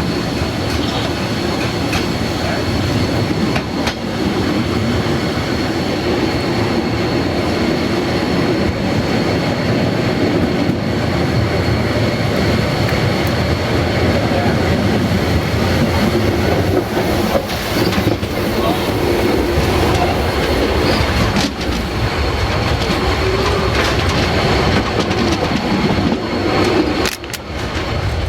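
Harz narrow-gauge steam train running, heard from on board: a steady, loud rumble of wheels on rail with clickety-clack, and a thin steady high whine over it. The train is on the line's steady 33-per-mille climb, where the Class 99 steam locomotive is working at full power. The rumble dips briefly near the end.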